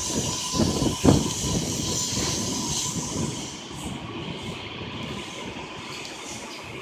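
A train running past on the tracks, its rumble and hiss easing off about halfway through, with gusts of wind buffeting the phone's microphone.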